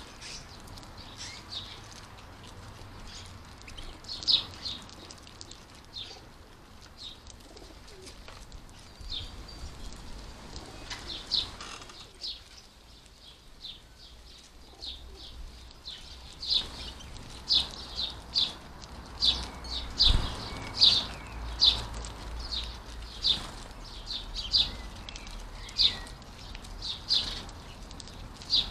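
European goldfinches calling: short, high chirps in quick runs, sparse at first and coming thick and fast through the second half.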